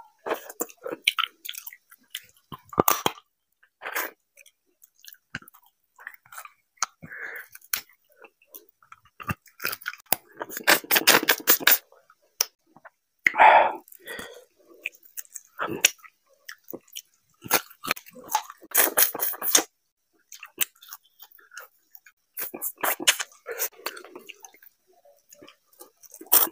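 Close-miked chewing and lip-smacking of rice and mutton curry eaten by hand: irregular wet clicks and smacks in clusters, with quiet gaps between mouthfuls.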